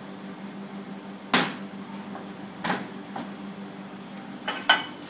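A few sharp knocks of kitchen items being handled and set down on a worktop, about four in all, the last two close together near the end, over a steady low hum.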